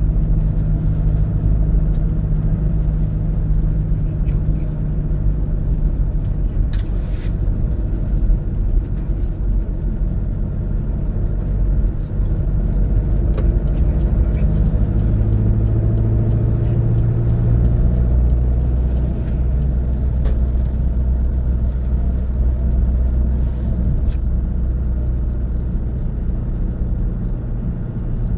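A car driving along a mountain road: steady engine and road rumble, with the engine note dropping lower about halfway through.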